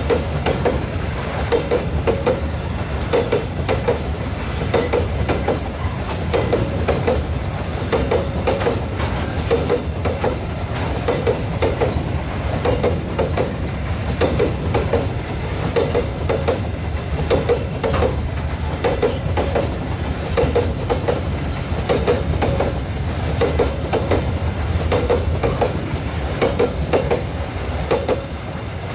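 Long freight train of covered wagons rolling past, its wheels clacking over the rail joints in a steady repeating double beat over a low rumble.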